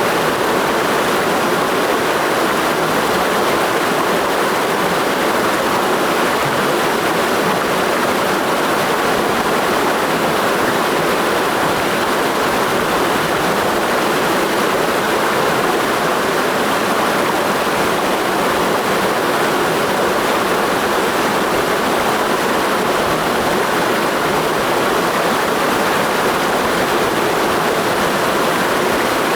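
Mountain stream flowing in a steady, unbroken rush of water.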